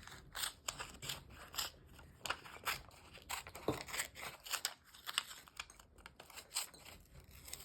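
Scissors snipping through a sheet of origami paper: a run of short, sharp cuts about two a second.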